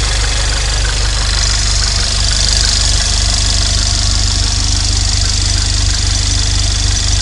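Volkswagen Scirocco engine idling steadily.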